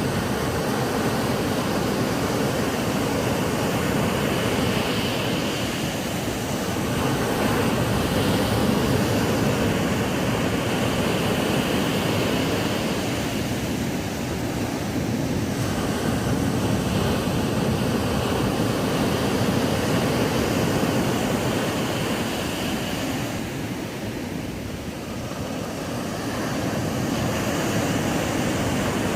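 Ocean waves breaking on a sandy beach: a continuous wash of surf that swells and eases every several seconds, with a softer lull near the end.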